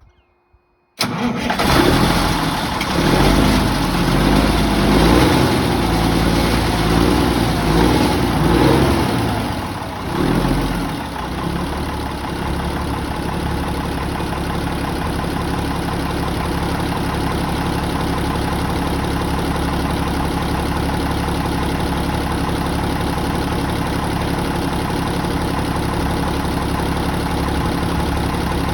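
Freightliner dump truck's diesel engine starting from cold about a second in, running loud and uneven for roughly ten seconds, then settling into a steady idle.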